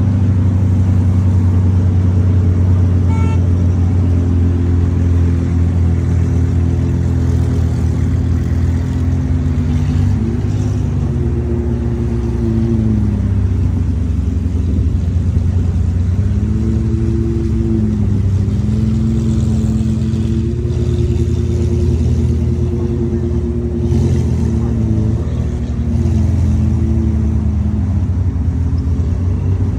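Lamborghini engine running steadily, its pitch rising and falling through repeated gentle revs.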